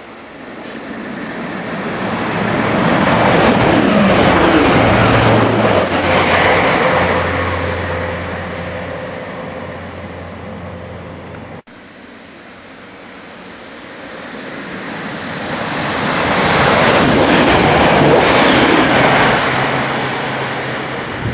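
Two trains passing at speed, one after the other. Each swells to a loud rush of wheels on rail and fades away, with a steady low hum under the first. The second is an electric multiple unit, and its pass is broken off abruptly about halfway through by an edit.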